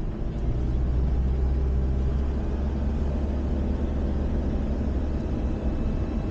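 A camper van's engine and road noise heard from inside the cabin while driving: a steady low drone that eases slightly near the end.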